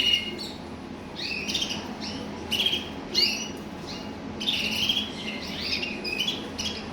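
Canaries singing: a series of short chirps and trilled phrases, repeated every second or so.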